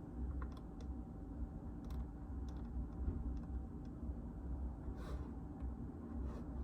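Typing on a JJK84 mechanical keyboard with Outemu Silent Peach linear switches: scattered, irregular keystrokes.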